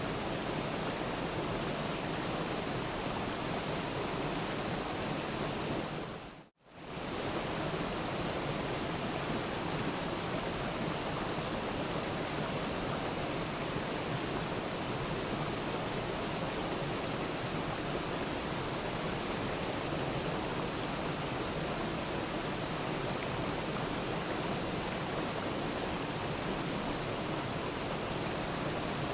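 Waterfall: a steady, even rush of falling water. About six seconds in it fades out to silence for a moment, then comes straight back.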